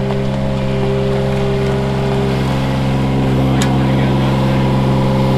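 Diesel engine of a wheel loader running at a steady speed, a constant low drone.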